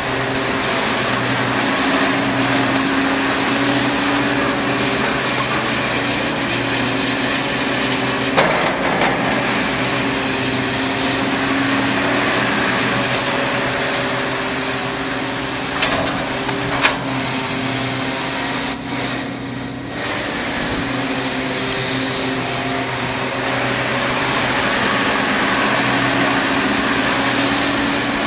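John Deere backhoe's diesel engine running steadily while it works, with a few sharp knocks and clanks partway through.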